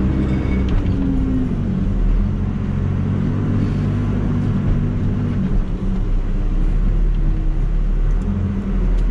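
Caterpillar backhoe loader's diesel engine running as the machine drives, heard from the cab. The engine note drops about two seconds in and shifts again a couple of times after.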